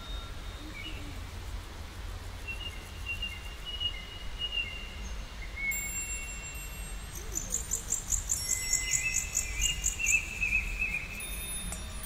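Songbirds singing: drawn-out whistled notes and, from about seven seconds in, a fast high trill, over a steady low background rumble.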